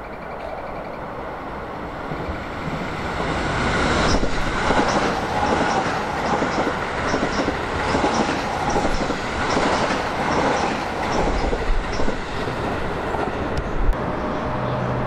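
Keio 7000 series electric train passing, growing louder over the first few seconds as it approaches, then a steady rush with regular clacking of the wheels over rail joints.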